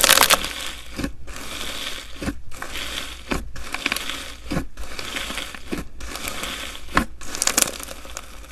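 Slime being squeezed and pressed by hand, making a dense crackling, crinkling noise that breaks off briefly about once a second.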